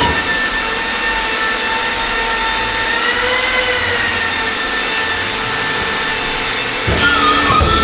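A workshop machine running with a steady whine over a rushing hiss, its pitch wavering slightly midway, with a couple of knocks near the end.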